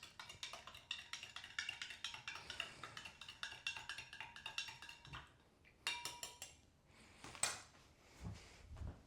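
A spoon clinking rapidly against a drinking glass while stirring powdered drink mix into water. The quick clinking stops about five seconds in, followed by a few separate taps and soft knocks.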